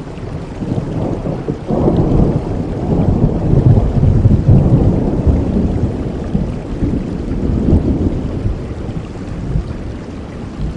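Steady rainfall with a low rolling rumble of thunder that builds sharply about two seconds in and fades away over the next several seconds.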